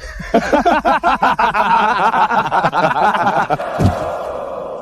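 Several voices laughing mockingly in quick, pulsing bursts, tailing off near the end.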